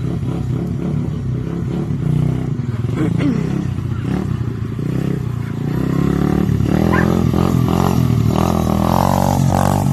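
Tao DB17 125cc four-stroke dirt bike engine running, the revs rising and falling, louder in the second half.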